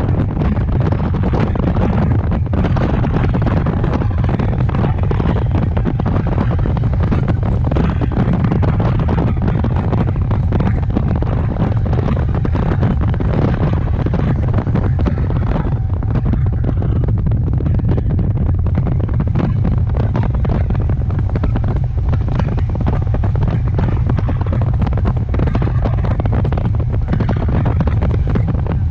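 RER D commuter train running along the track, heard from on board: a loud, steady low rumble with constant small knocks and clatter.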